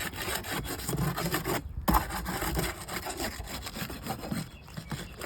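Roof shingles being unsealed: continuous scraping and rubbing as the shingle tabs are worked loose from their sealant strips, with a brief pause and a sharp snap about two seconds in.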